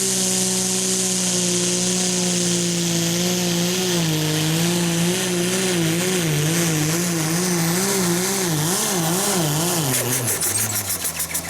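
Super stock pulling tractor's turbocharged diesel engine running hard at full throttle under load during a pull, its pitch wavering up and down for several seconds as the load surges. About ten seconds in the engine note breaks into a rapid stutter and drops away as the throttle comes off.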